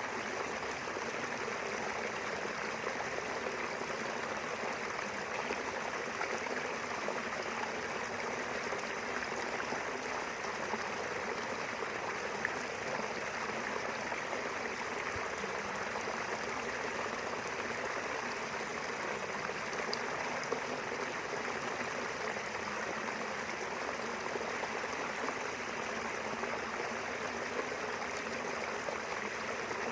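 Steady rushing and babbling of a small river flowing between rice fields.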